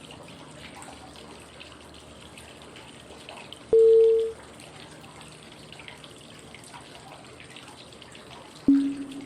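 Flowing-water white noise with two breathing cue tones five seconds apart: a short, loud mid-pitched tone about three and a half seconds in, then a lower tone near the end that rings on. Each tone signals the switch to the next five-second phase of 555 breathing (inhale, hold, exhale).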